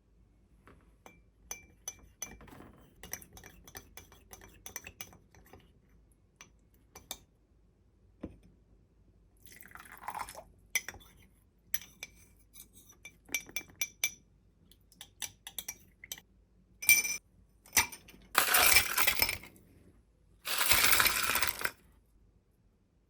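Many light clinks against a drinking glass, with a short ringing after each. Near the end, liquid is poured twice, each pour lasting a second or so.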